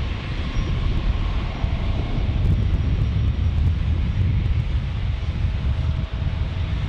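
Jet engines of a Boeing 757-300 airliner passing close by, a loud, steady deep rumble with a rushing hiss over it.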